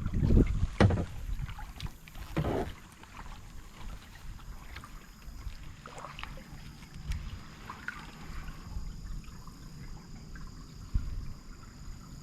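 Kayak paddling on a lake: the paddle splashing and dripping in the water. Wind buffets the microphone for the first few seconds, then it quietens to scattered small splashes.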